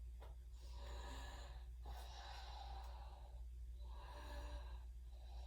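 Slow, audible breathing: several long breaths in and out, each a soft rush of air about a second long, over a steady low hum.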